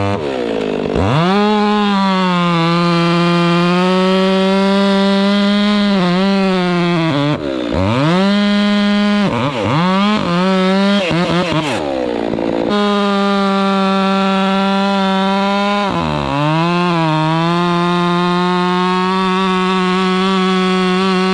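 Chainsaw running at high revs, probably cutting wood. The engine note holds steady and dips briefly and recovers several times: about a second in, around six seconds, twice between seven and ten seconds, and again near sixteen seconds.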